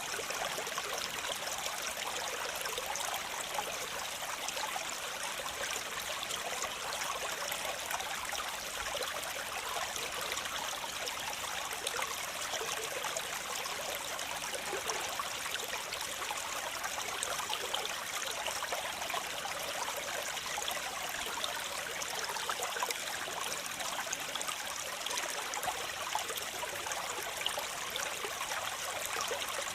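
Waterfall: water falling and splashing in a steady, continuous rush, bright and hissing with little deep rumble.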